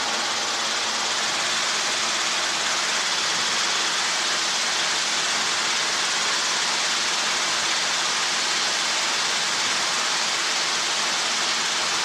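Steady hiss of helicopter cockpit noise heard through the intercom, with a faint steady hum of engine and rotor tones underneath.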